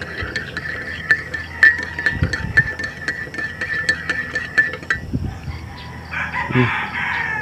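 A rooster crowing about six seconds in, over a steady high-pitched background tone scattered with short sharp clicks.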